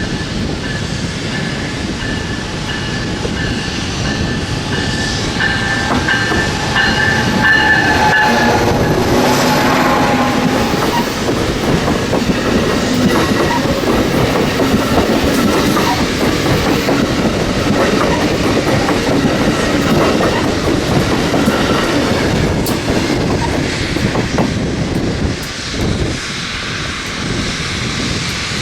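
Amtrak Cascades passenger train passing close by, its wheels rattling and clicking over the rail joints with a steady rumble, loudest in the middle. Steady high-pitched tones sound over the first nine seconds or so.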